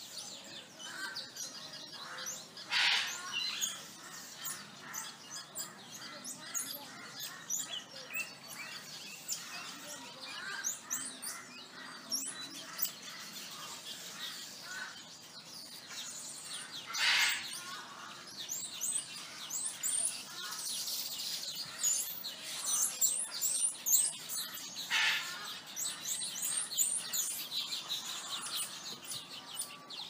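Many small birds chirping and twittering in quick high notes, with three louder, harsher bursts standing out: about three seconds in, in the middle, and near the end.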